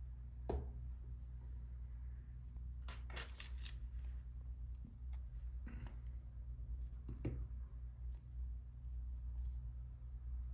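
Scattered small clicks and short scrapes of hand tools and small lens parts being handled at a workbench, with a cluster of them about three seconds in, over a steady low hum.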